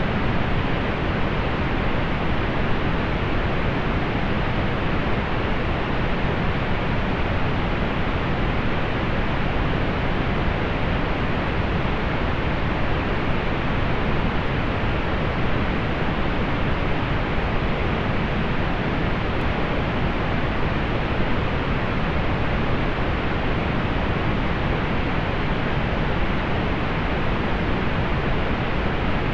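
Steady synthetic pink noise: an even, unchanging hiss-like rush weighted toward the low end and rolled off in the highs.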